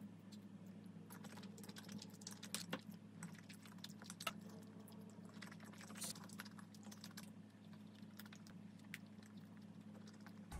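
Faint close-up chewing and mouth sounds, with scattered soft clicks, over a low steady hum.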